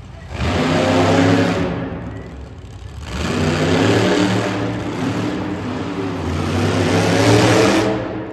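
Monster truck engine revving in two loud bursts: a short one about half a second in, then a longer run of throttle from about three seconds in that swells and falls away near the end.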